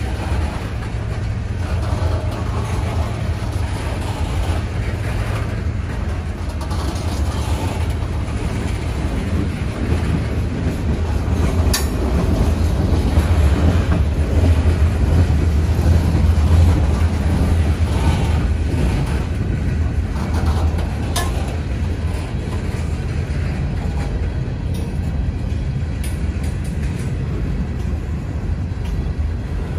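CSX freight train on the move, a steady loud low rumble of diesel locomotives and rolling freight cars that swells a little in the middle. Two sharp metallic clicks stand out, about twelve and twenty-one seconds in.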